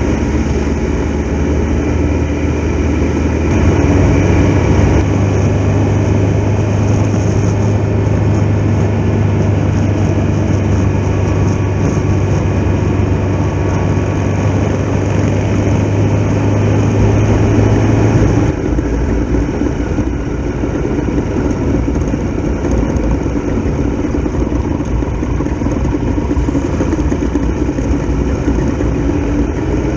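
Triumph Tiger Explorer XRx's three-cylinder engine running under way at steady speed. Its steady note changes about two-thirds of the way through.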